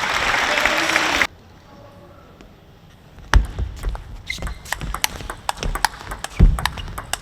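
Arena crowd applause that cuts off suddenly about a second in. After a short lull, a table tennis rally starts: a quick run of sharp clicks as the celluloid-type ball strikes the bats and the table.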